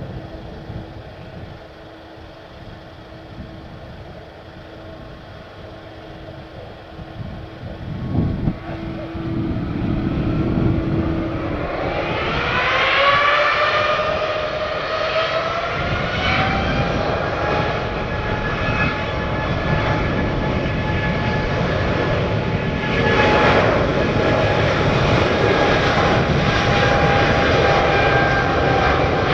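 Jet airliner engines spooling up: a low rumble with a steady hum, then about twelve seconds in a whine that rises in pitch and levels off into a loud steady roar of takeoff thrust.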